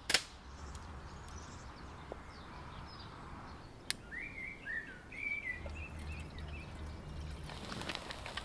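Quiet outdoor ambience with a small bird giving a short run of high chirps about four to six seconds in. A sharp click sounds near the start and another just before the chirps.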